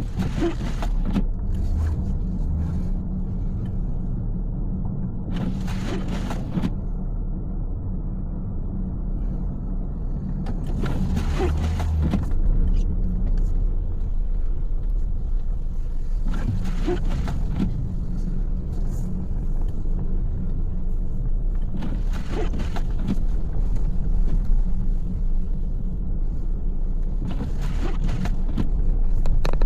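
Car driving, a steady low rumble of engine and road noise, with a brief whoosh about every five and a half seconds.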